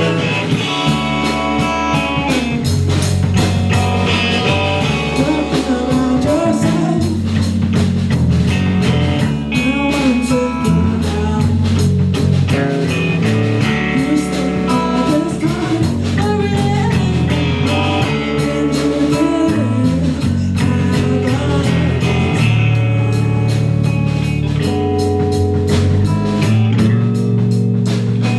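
Live rock band playing, with electric guitar, bass and drums; sung or held notes come and go over a steady beat.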